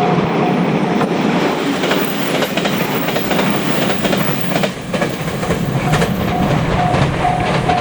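Train passing over a level crossing, its wheels clattering over the rail joints, while the crossing's electronic warning bell rings in steady strokes about two a second; the bell is heard clearly near the start and again from about six seconds in, drowned out by the train in between.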